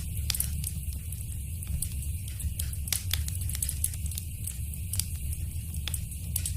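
Wood fire crackling: a steady low rumble with frequent sharp, irregular pops and snaps.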